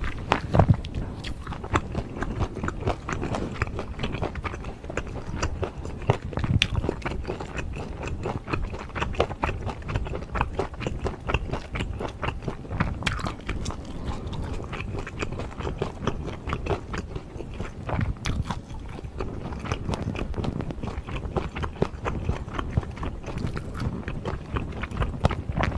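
Close-miked chewing with the mouth closed: a steady run of small wet clicks and smacks as a person works through a mouthful of food.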